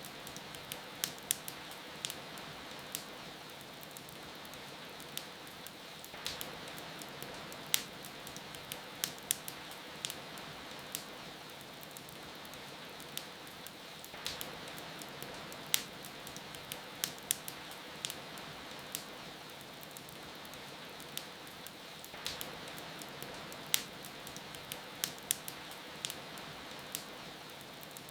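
Steady hiss of falling rain with a wood fire crackling over it: irregular sharp pops and snaps, sometimes in quick clusters.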